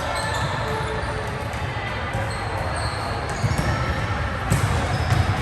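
Indoor volleyball match sound in a gym: a steady rumble of players and spectators, short high sneaker squeaks on the court, and sharp ball smacks around three and a half seconds in and again near the end.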